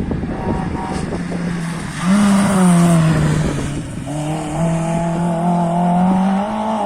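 Rally car engine at high revs, accelerating hard: its pitch jumps up about two seconds in, drops over the next second or so, then climbs steadily again.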